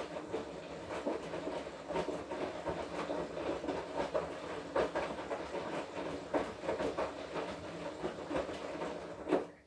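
Washing machine drum turning in the wash cycle, laundry tumbling with irregular knocks over a steady motor hum. It stops abruptly near the end.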